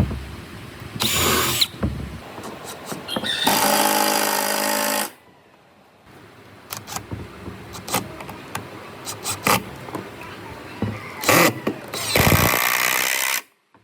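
A power tool run in short bursts, three times, each for a second or two, with scattered clicks and knocks of work on wood in between.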